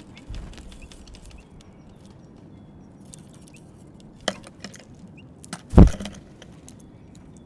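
Birds at a feeder, making scattered small clicks and knocks as they peck and handle seeds, with a sharp tick about four seconds in and a heavier thump near six seconds.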